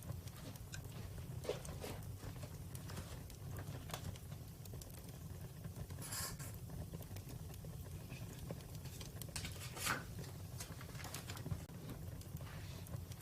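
Wood fire crackling: irregular small pops and snaps over a low steady rumble, with two louder pops about six and ten seconds in.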